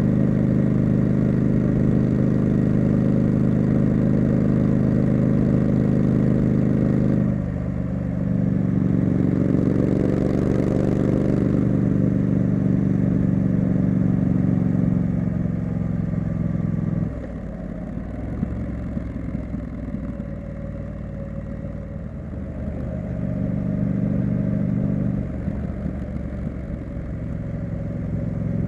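Triumph Street Scrambler's parallel-twin engine and exhaust under way, pulling hard, with short dips in the note where the throttle is closed about seven seconds in. The engine eases off after about fifteen seconds, running quieter while coasting, then picks up again near the end.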